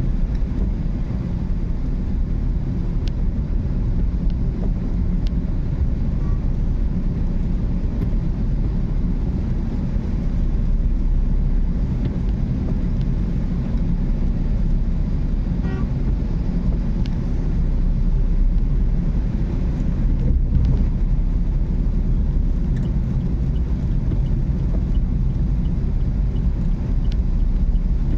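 Car driving: a steady low rumble of engine and tyre noise, with a few faint clicks scattered through it.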